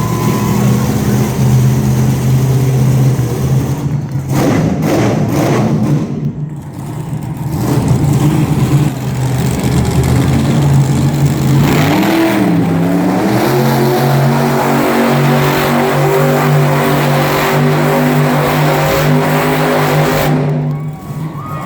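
Monster truck engine running loud and steady, its pitch dipping and climbing again in a rev about twelve seconds in.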